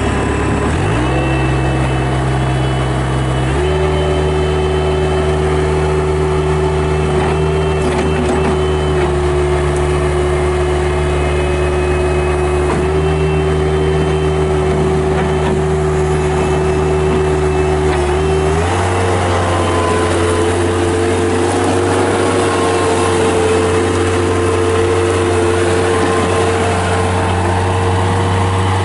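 Bobcat 7753 skid steer loader's Kubota diesel engine running just after start-up. Its speed steps up twice in the first few seconds, then again about two-thirds of the way through, and holds steady at the higher speed.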